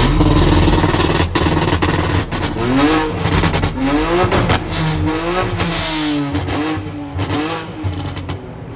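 Car engine revved hard again and again, its pitch climbing and dropping several times, over a loud rushing noise.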